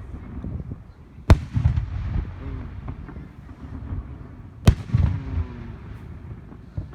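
Aerial fireworks shells bursting: two sharp bangs, about a second in and again some three and a half seconds later, each trailing off in a low rumble, over a continuous low rumble of more distant bursts.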